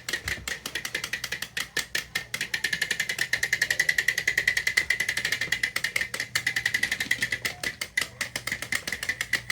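Battery-powered toy train engines running and straining against each other. Their small motors and gearboxes give a steady high whine with rapid clicking, about ten clicks a second.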